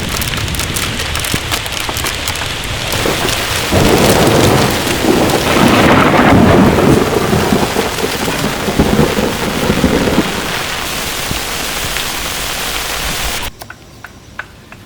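Heavy rain pouring, with a long rumble of thunder that swells about four seconds in and rolls on for several seconds; the rain noise cuts off abruptly near the end.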